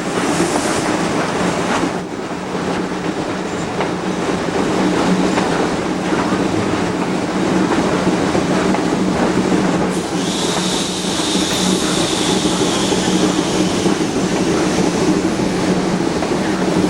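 Heisler geared steam locomotive working hard as it pushes a passenger train, a steady loud din of exhaust and running gear on the rails. About ten seconds in, a high hissing squeal joins it for roughly five seconds.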